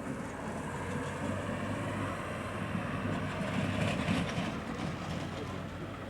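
Tractor diesel engine running steadily, swelling a little around four seconds in.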